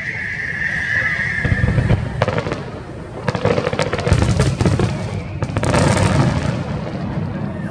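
Aerial fireworks bursting: sharp bangs and dense crackling that cluster from about two seconds in to about six seconds in. A high, slightly falling hiss runs through the first two seconds.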